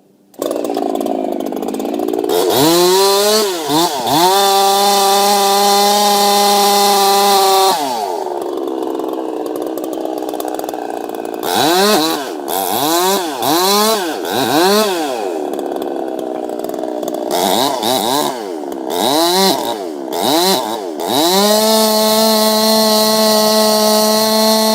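Chainsaw engine running hard. It revs up to full throttle and holds there, drops back to idle, then gives a series of short throttle blips, and near the end climbs to full throttle and holds again.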